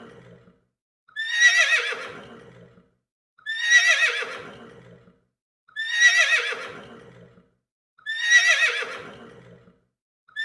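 Horse neighing, the same whinny repeated about every two and a quarter seconds. Each neigh starts high with a quavering pitch and fades out over about a second and a half, with silence between; there are four full neighs, the tail of one at the start and the start of another at the very end.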